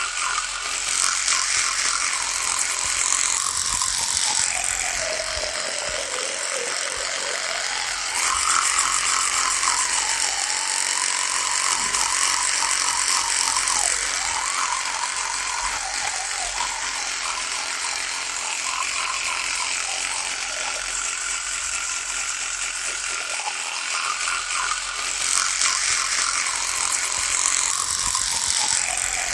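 Electric toothbrush running without a break, a steady high buzz whose pitch sags and recovers several times.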